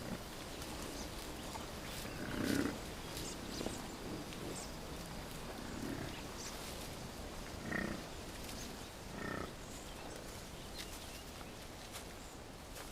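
Bison giving several short, low grunts a few seconds apart, over the rustle of foliage with light twig clicks.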